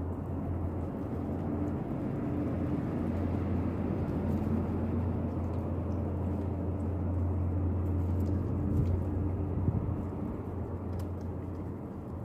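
A steady low engine drone that grows louder through the middle and eases off near the end.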